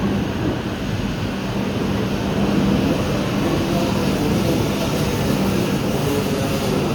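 E5 series Shinkansen train running slowly along the platform as it arrives, a steady hum with a constant low drone.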